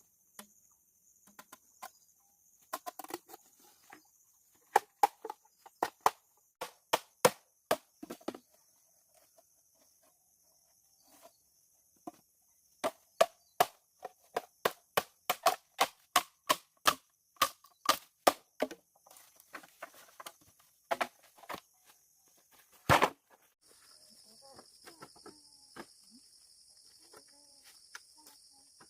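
Repeated sharp strikes of a hand tool, about two or three a second in two runs, then a single heavier blow near the end. A steady high-pitched hum runs underneath.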